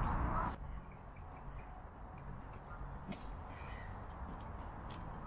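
Small bird giving short, high-pitched chirps every second or so over a quiet background. A louder rushing noise cuts off suddenly about half a second in.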